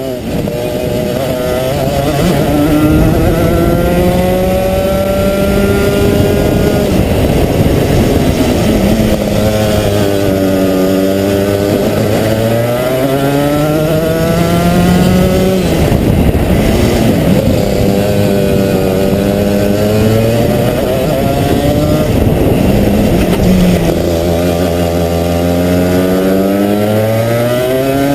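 Two-stroke Rotax kart engine running hard on a track: its pitch climbs as it accelerates and drops as it lifts off, several times over.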